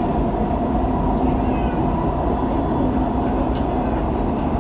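Dubai Metro train running, heard inside the carriage: a steady low rumble with a faint steady whine over it and a few faint high squeaks.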